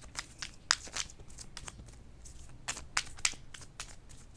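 Tarot cards being shuffled by hand: a run of irregular, light papery flicks and slaps of card against card.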